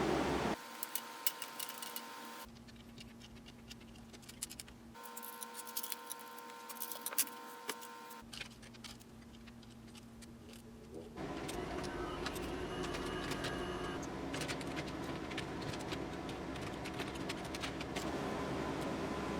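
Sped-up sound of plastic building bricks being handled and pressed together: rapid clicks and light rattles in short joined stretches, busier and louder in the second half.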